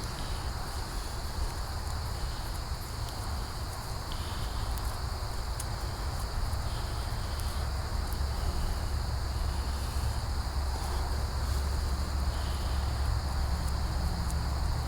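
Steady chorus of insects, such as crickets, holding a constant high-pitched buzz. Underneath is a low rumble that grows a little louder in the second half.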